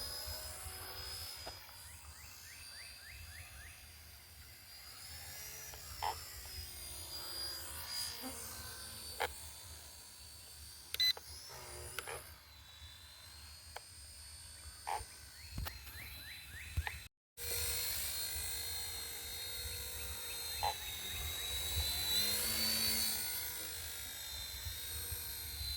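Small electric RC helicopter flying, its motor and rotor giving a high whine that wavers as the pitch and throttle change. Low rumbling noise sits under it, with a few faint clicks, and the sound cuts out briefly about two-thirds of the way through.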